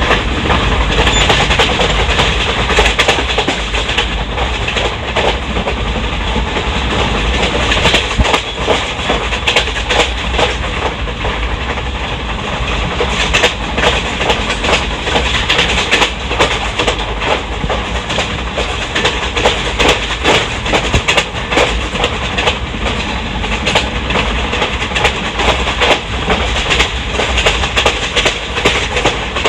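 Wheels of an ICF passenger coach running fast over the rails: a steady rumble and hiss with frequent sharp clicks and knocks from the track joints.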